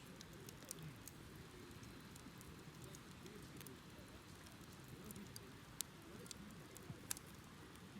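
Wood bonfire burning quietly, with scattered sharp crackles and pops over a faint low rumble; two louder pops come in the last few seconds.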